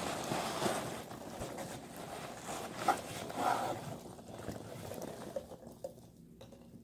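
Packing peanuts and box packaging rustling and shifting as they are handled, busiest for the first four seconds and then quieter, with a couple of brief squeaks around three seconds in.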